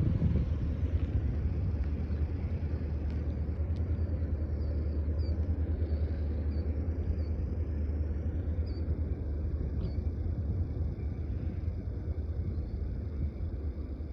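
Freight train rolling past with a steady low rumble, and a few faint short high squeaks over it.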